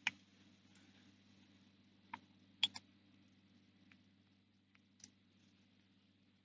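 A few light clicks and taps of chainsaw parts being handled as the bar, chain and side cover are fitted back on, the loudest a quick double click a little under three seconds in, over a faint steady hum.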